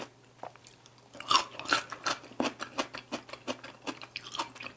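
A person chewing food, about four chews a second, starting about a second in.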